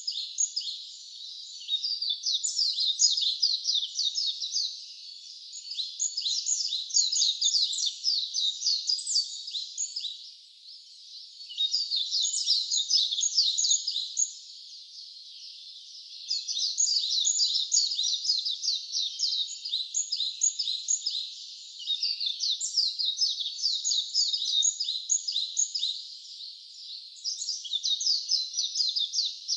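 A songbird singing fast, high, trilled phrases of several seconds each, with pauses of about a second between them.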